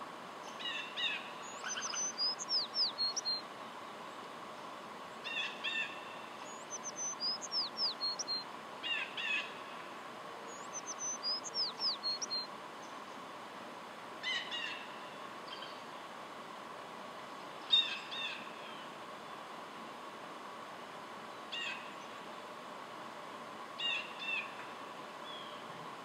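A songbird sings a short song of high, quickly descending notes three times in the first half, with short sharp chip calls scattered throughout, over a faint steady hum.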